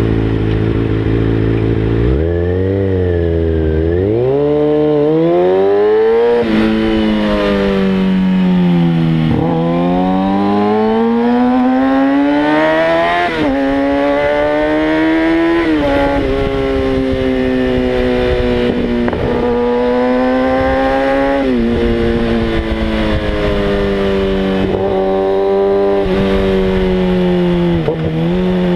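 2013 Kawasaki Ninja ZX-6R 636's inline-four engine heard from onboard: idling steadily, then pulling away about two seconds in and accelerating through the gears, its pitch climbing and dropping sharply at each upshift. Later it holds a steady high-rev cruise and eases off near the end.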